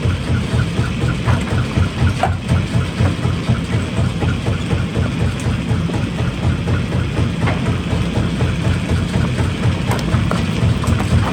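Heavy rock-crushing machinery running with a steady, low, pulsing rumble, with a few sharp knocks through it.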